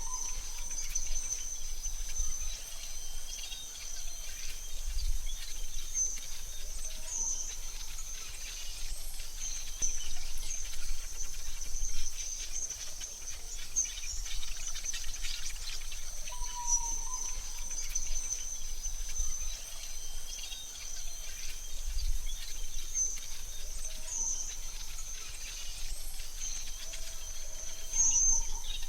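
Forest ambience: a continuous high-pitched insect trill, with a few short bird calls about a quarter-minute apart over a faint low rumble.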